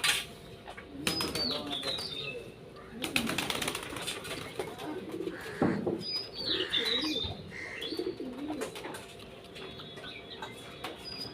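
A flock of domestic pigeons flapping their wings in several bursts during the first few seconds, with cooing throughout.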